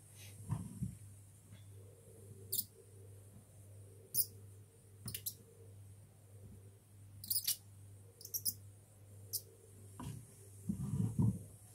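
Lead-burning torch work on sheet lead: short, very high squeaks at irregular intervals over a steady low hum, with a few low knocks about half a second in and near the end.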